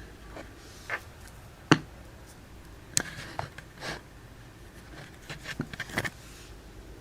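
Irregular small knocks, clicks and scrapes in a small room, the sharpest a little under two seconds in and a quick cluster near the end.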